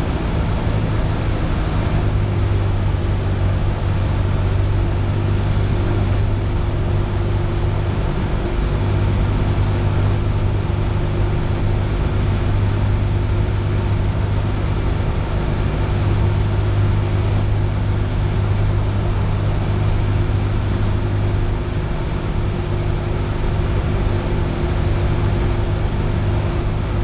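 Cessna 172R's four-cylinder Lycoming engine and propeller droning steadily in the cabin in flight, a low hum with a constant pitch.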